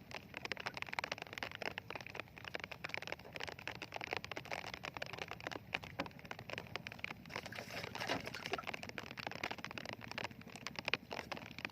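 Rain falling on the boat, a dense steady crackle of many small drop impacts.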